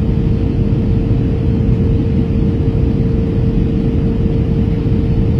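Airbus A321 cabin noise in flight: a steady low rumble with a constant hum over it.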